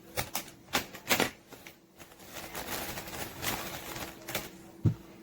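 Rubber bands being stretched and snapped onto the rind of a small watermelon: a run of irregular sharp snaps and clicks with some rubbery rustling, and a dull thump near the end.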